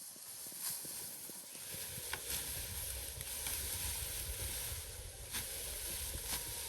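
Rice stalks rustling and being cut with a hand sickle during harvest: a steady dry hiss with a few short sharp snicks and a low rumble underneath.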